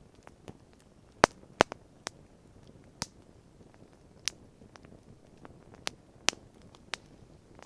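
Wood fire crackling: irregular sharp pops and snaps over a faint steady hiss, with the two loudest pops close together a little over a second in.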